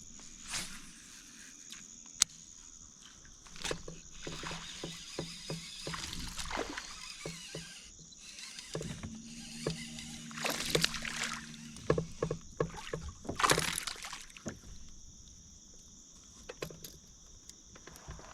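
A small bass being reeled in and landed in a small boat: scattered knocks and clicks against the boat, and two loud bursts of splashing about ten and thirteen seconds in. Insects chirr steadily throughout.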